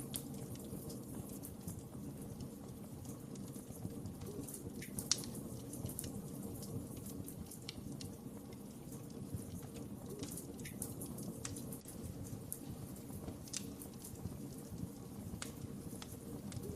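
Wood fire burning in a fireplace: a steady low rumble of flames with scattered crackles and pops, the sharpest about five seconds in.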